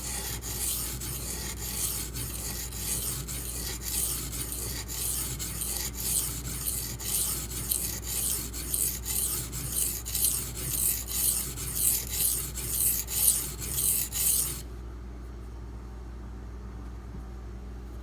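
D2 steel knife blade scraped in repeated strokes across a coarse 240-grit silicon carbide benchstone, about two strokes a second, grinding the edge toward a burr. The strokes stop about three-quarters of the way through, leaving a steady low hum.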